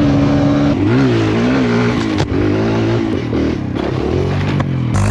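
Dirt bike engine running, its pitch steady at first and then rising and falling as the throttle is worked.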